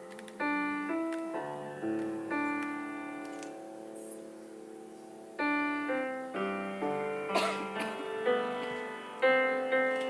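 Piano playing a slow passage of chords and melody notes, each struck note ringing and fading; a held chord rings out with no new notes for about two seconds midway.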